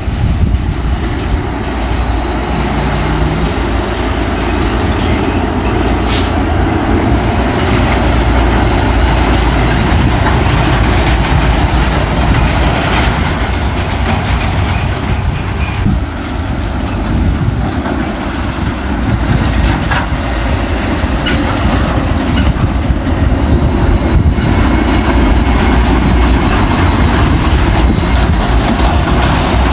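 Heavy diesel truck running steadily under load, a deep low rumble with road noise, with one short sharp click about six seconds in.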